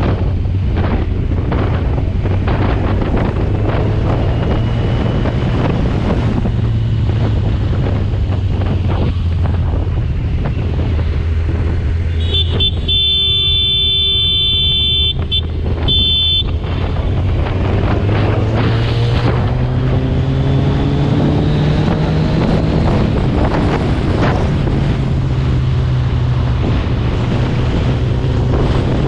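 Superbike engine running under wind noise on the microphone, with a vehicle horn sounding for about four seconds midway. Afterwards the engine pitch rises as the bike accelerates.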